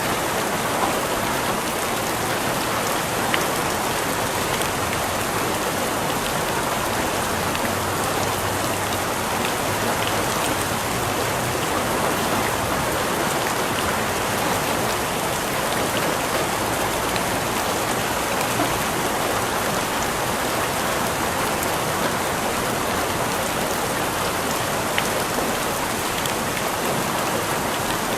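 Steady rain falling, an even hiss with scattered small drop ticks and no letup.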